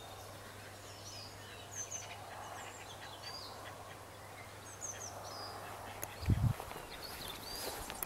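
Birds chirping in the trees, scattered short whistled notes over faint outdoor background noise. A brief low thump about six seconds in.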